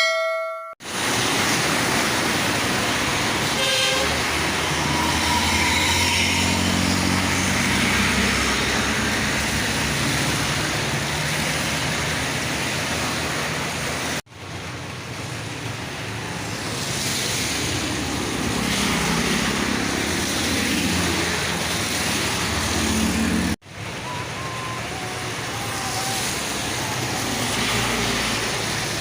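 Trucks and other road traffic passing on a wet road in heavy rain: engine noise swelling and fading over a steady hiss of rain and tyres. A vehicle horn toots briefly.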